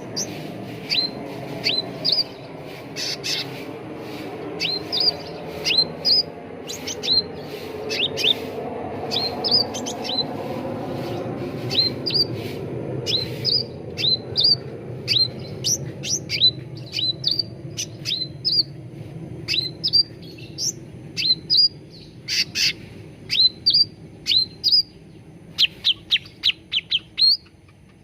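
Cucak ranting calling: a steady series of short, sharp chirps, each sweeping down in pitch, about one or two a second, with quicker runs of notes near the end. A low steady rumble lies under the calls and fades toward the end.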